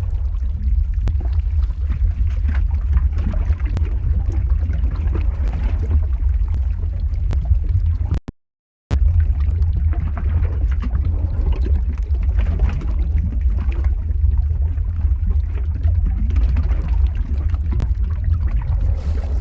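Lava-flow ambience sound effect: a steady deep rumble under a noisy, crackling texture with scattered sharp clicks. About eight seconds in it drops out to silence for about half a second, then resumes unchanged.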